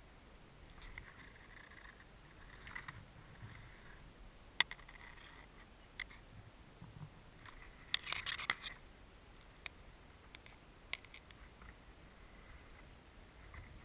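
Faint rustling and handling noise with a few scattered sharp clicks, the loudest click about four and a half seconds in and a brief burst of rustling a little past halfway.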